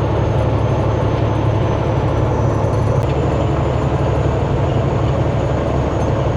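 Semi-truck cab at highway speed: the engine's steady low drone with tyre and road noise.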